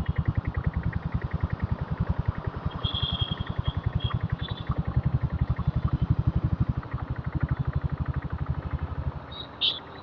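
Diesel Royal Enfield Bullet's single-cylinder engine running at low revs, an even, steady beat of about nine exhaust pulses a second. A brief high-pitched sound comes near the end.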